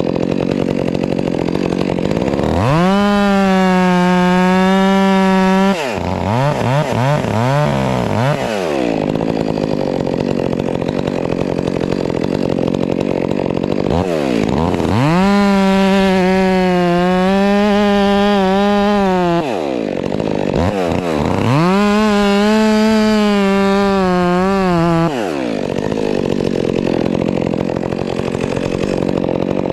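Gas chainsaw bucking a log at full throttle. Its pitch sags and turns rough while the chain is in the wood, then rises to a steady high whine three times as it frees up, with the revs falling and climbing again in between.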